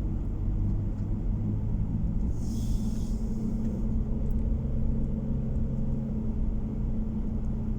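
Car driving on the road, heard from inside: a steady low rumble of engine and tyre noise with a constant hum. A brief hiss rises about two and a half seconds in and fades a second later.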